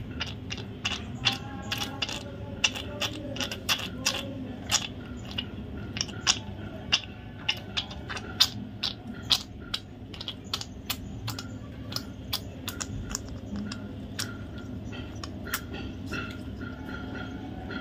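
Budgie making quick, short chirps and clicks, several a second, with a few brief whistled notes. The sick bird's voice has gone bad.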